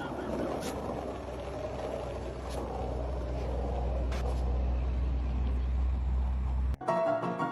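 A steady low rumble with a noisy hiss, growing louder about three seconds in and cutting off abruptly near the end, where piano music starts.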